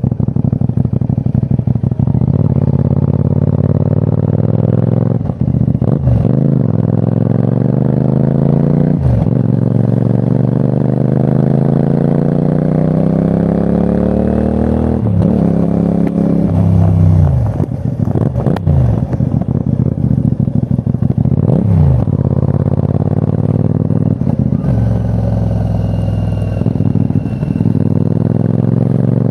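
CFMOTO 450NK's parallel-twin engine under way, its pitch climbing steadily through long pulls broken by gear changes. Several quick drops and rises in revs come midway.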